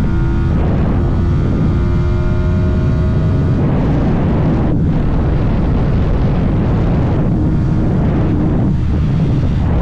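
Stock Yamaha R125's single-cylinder four-stroke engine running under way at fairly steady revs, with heavy low wind and road rush over it. There is a brief dip about five seconds in.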